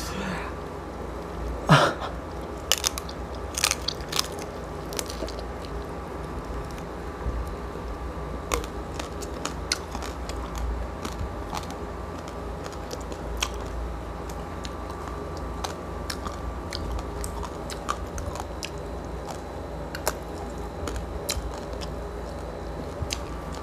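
Close-up chewing and crunching of crispy roast pork skin from a lechon pig's head, with sharp crackling bites loudest in the first few seconds, then quieter chewing with scattered crackles.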